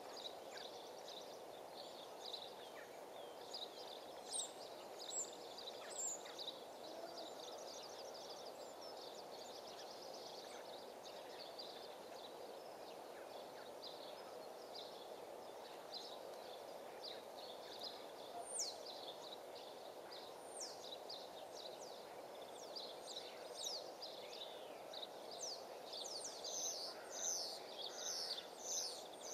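Small birds chirping and singing, short high downward-sweeping notes that come thicker in the last few seconds, over steady low outdoor background noise.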